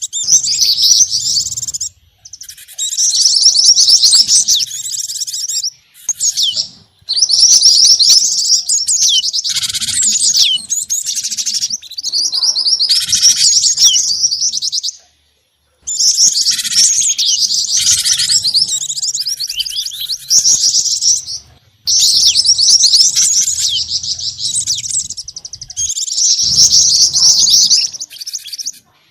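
Bird-lure recording of small songbirds, a mix of gelatik batu (cinereous tit), jingjing batu and mantenan calls: rapid high, loud chirping and twittering in runs of several seconds, broken by short, sudden gaps as if looped.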